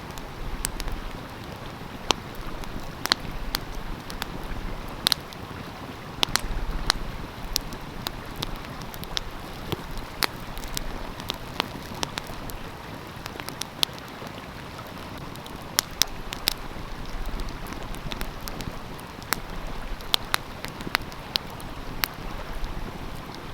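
Wood fire crackling, with many sharp, irregular pops, over the steady rush of a flowing stream.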